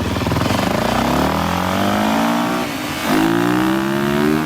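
Dirt bike engine revving hard under acceleration, its pitch climbing for about two seconds, dropping briefly, then climbing again.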